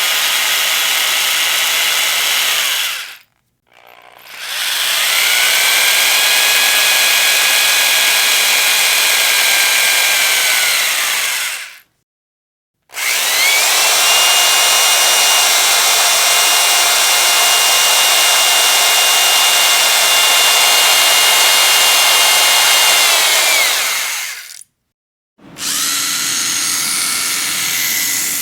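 Electric power drill running in long bursts with a steady high whine, cutting out briefly three times. Each run spins up at the start and winds down before it stops.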